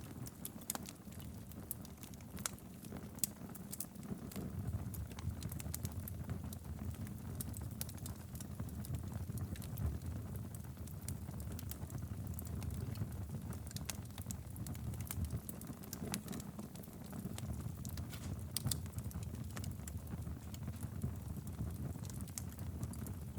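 Wood fire burning steadily in a fireplace, with a low rumble of flames and frequent sharp crackles and pops scattered throughout.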